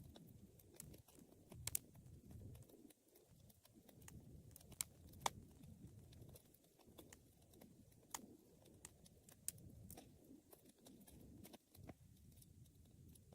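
Wood fire crackling: irregular sharp pops and snaps, a few louder ones about two, five and eight seconds in, over a soft low rumble of the flames.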